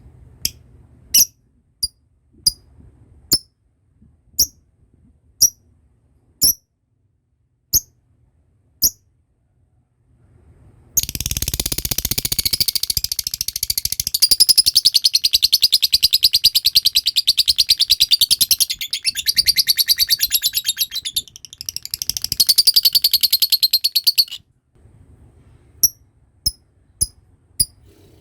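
Lovebird giving short sharp chirps about once a second, then breaking about eleven seconds in into a long, very rapid chattering trill (the "ngekek" song) that lasts about thirteen seconds before it stops and the single chirps resume near the end.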